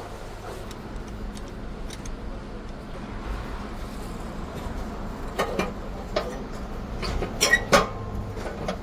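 A steady low hum, then from about five seconds in several sharp metallic clanks and clinks of tools or engine parts being handled.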